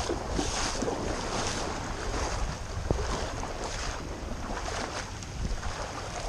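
A person wading through deep floodwater, the water sloshing and swishing about once a second with the steps, while wind rumbles on the microphone.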